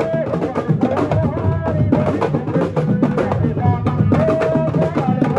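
Lively percussion music: rapid, dense drum strokes with a high held melodic line bending over them.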